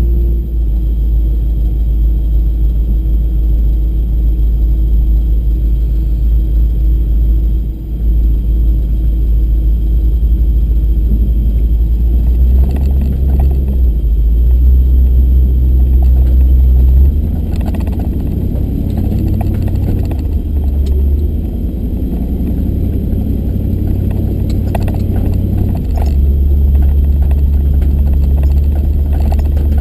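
A truck engine running as the vehicle crawls along the trail, a heavy low rumble that changes in load several times, with occasional rattles and knocks from the body.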